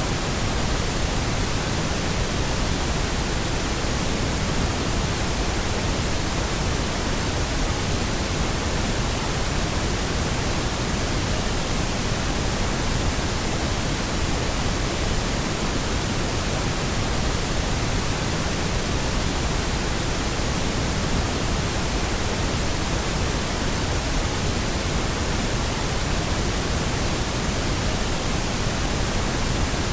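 Steady pink noise: an even, unchanging hiss across the whole range, weighted toward the bass.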